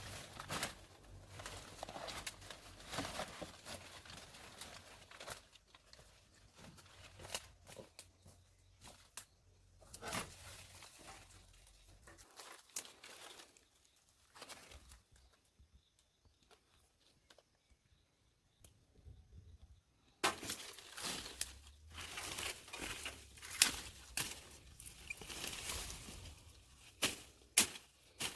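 Irregular rustling and scraping with scattered sharp clicks and knocks, like hands-on handling work, dying away to near quiet for several seconds midway before starting again.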